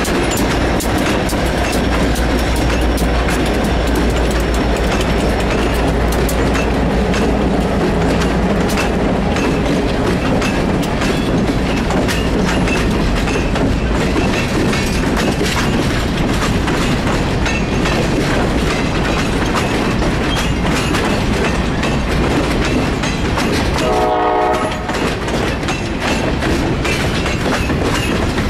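Freight train passing close: the trailing diesel locomotives rumble by, then the freight cars' wheels clack and rattle over the rail joints. About 24 seconds in, a train horn sounds for about a second and a half.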